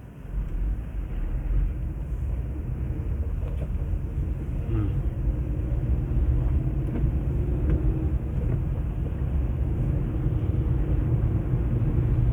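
Car running on a snowy, slushy road, heard from inside the cabin: a low engine-and-tyre rumble that sets in about half a second in and grows gradually louder as the car gathers speed.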